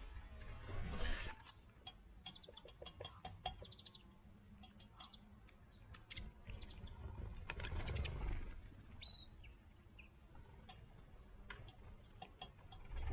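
Wild birds chirping in short, scattered notes, with light ticks and two soft swells of noise, one about a second in and one around the middle.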